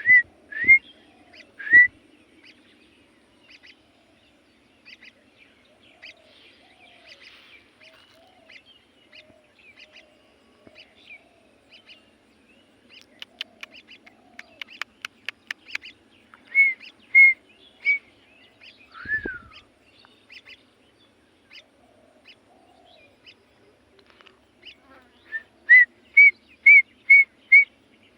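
Pet bird chirping in bouts of short, rising chirps, with one longer falling whistle about two-thirds of the way through. In the middle comes a rapid run of clicks, several a second.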